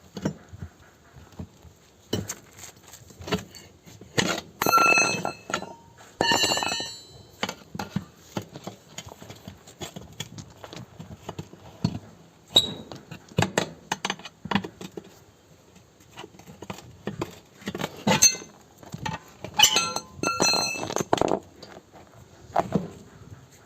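Irregular metallic knocks and clinks of tools on metal, with several ringing strikes about five and six seconds in and again near the end.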